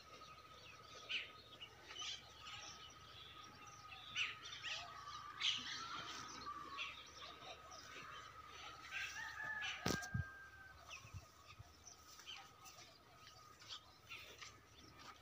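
Faint birds chirping, short sharp calls repeated irregularly over a steady faint high tone, with a single knock about ten seconds in.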